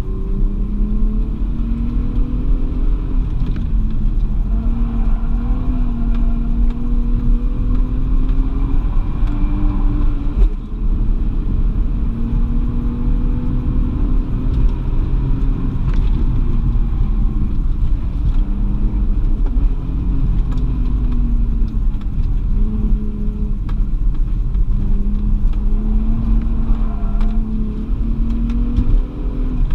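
Inside the cabin of a Lexus IS300, its 2JZ-GE straight-six engine revs up and down over and over under a heavy low rumble. The engine sound drops away briefly about ten seconds in and again near the end.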